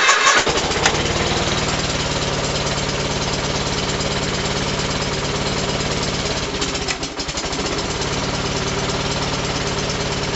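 Gravely 818T tractor engine running steadily with a fast, even beat just after a cold start in freezing weather. It dips briefly about seven seconds in, then picks back up.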